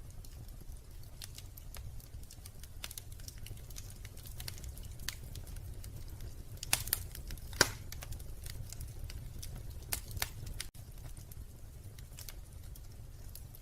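Wood fire crackling in a fireplace: irregular sharp pops and snaps over a low steady rumble, with two louder pops a little past the middle.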